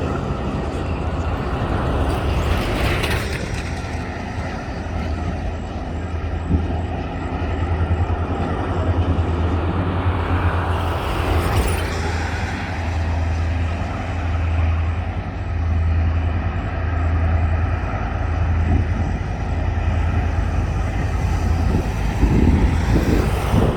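Diesel locomotives of a loaded coal train running, a steady low engine drone with swells of rumbling noise.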